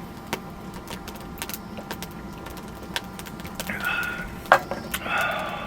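Light clicks and clinks of chopsticks and tableware during a meal, scattered and irregular, with one sharper clink about three quarters of the way through and brief rustling near the end.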